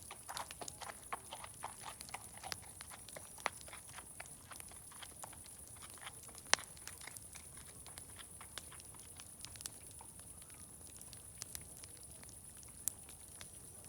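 Crackling fire giving irregular sharp pops and snaps, thickest in the first few seconds, with one louder pop about six and a half seconds in. A steady high-pitched hiss runs underneath.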